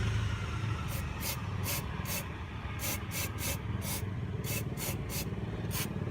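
Aerosol can of CRC mass air flow sensor cleaner sprayed into the MAF sensor housing in about a dozen short hissing squirts, over a steady low hum.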